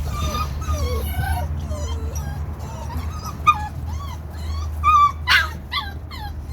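Several seven-week-old XL American Bully puppies whining and yipping, their short squeals overlapping, with a louder yelp about five seconds in. A steady low hum runs underneath.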